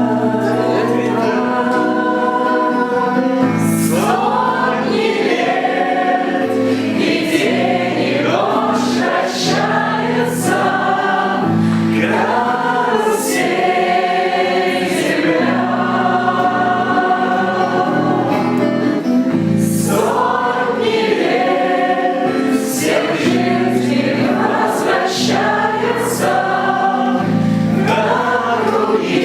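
Music: a choir singing a song in sustained, gliding notes over instrumental accompaniment.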